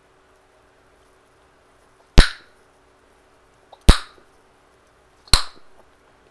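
Chewing gum snapped three times in the mouth, close to the microphone: sharp, loud pops about a second and a half apart.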